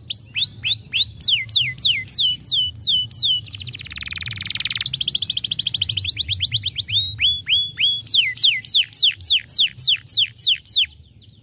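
Canary singing: a fast series of loud, falling whistled notes, about four a second, broken in the middle by a rapid buzzing trill, then more falling notes that stop shortly before the end.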